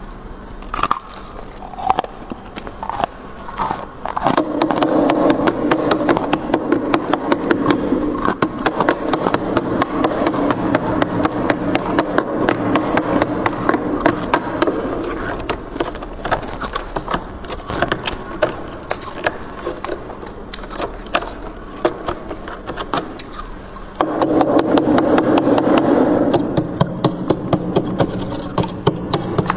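Freezer frost being scraped and crunched: a dense run of crackling clicks throughout, with a steady grinding scrape from about four seconds in until past the middle, then again briefly near the end.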